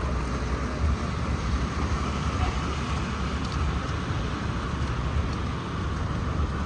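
Steady traffic noise with a low rumble underneath and no single standout event.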